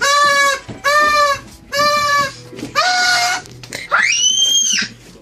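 A mouth-blown toy noisemaker sounds four short, loud, flat-pitched honks about a second apart, then a fifth a little higher. It ends with a high whistle that rises and falls.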